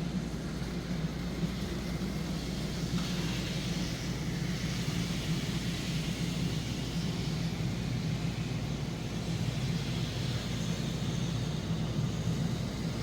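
N scale model train running steadily around the track: a continuous motor hum with a faint hiss of wheels on rail.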